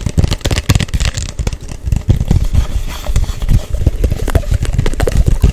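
Fast, close-miked ASMR hand sounds: a rapid, irregular run of taps, rubs and clicks with a heavy low thump under them.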